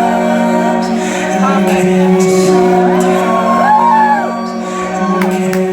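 Live rock band holding a loud, droning chord, with a gliding tone that bends up and back down in the middle and a few sharp hits near the end.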